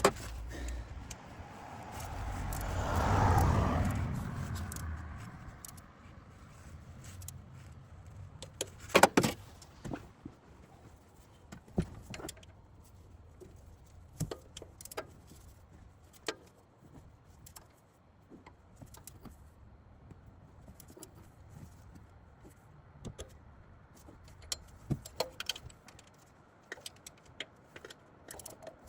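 Metal clinks and clanks of hand tools and bolts while a car's new water pump is being fitted, with a sharp cluster of knocks about nine seconds in. A rising and fading rush of noise swells between about two and five seconds in.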